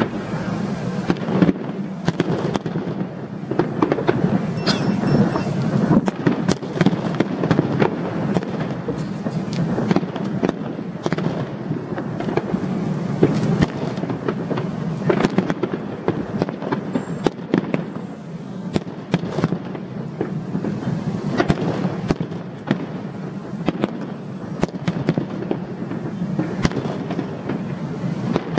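Fireworks display: aerial shells bursting in quick succession, with crackling and many overlapping bangs.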